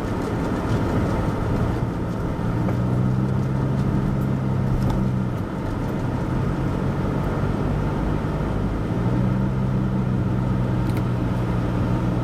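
Car engine and road noise heard from inside the cabin while driving. A steady engine hum comes in twice, for a few seconds each time, over a constant low rumble.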